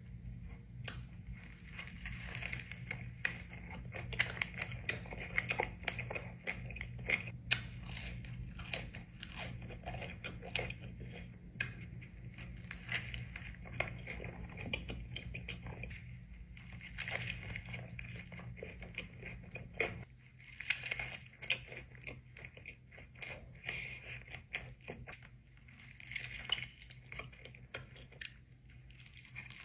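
Close-miked eating: a person taking crunchy bites and chewing, with irregular crackly clicks throughout over a steady low hum.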